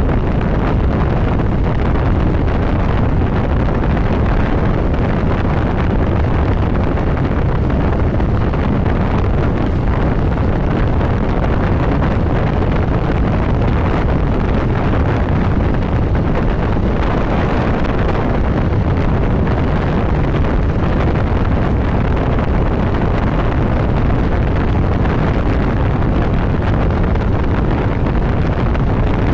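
Motorcycle riding at a steady cruising speed, mostly heard as a loud, steady rush of wind over the microphone, with the engine and road noise underneath.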